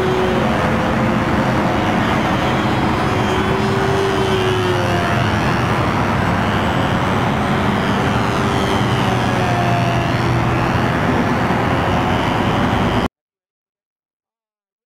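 Control line model airplane's small glow engine running at full speed in flight, its pitch slowly rising and falling as the plane circles. The sound cuts off abruptly about thirteen seconds in.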